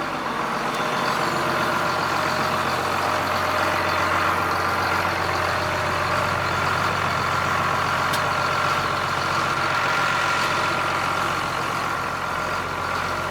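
John Deere 4755 tractor's six-cylinder turbo-diesel running steadily, getting a little louder about a second in, with a steady high whine over the engine note.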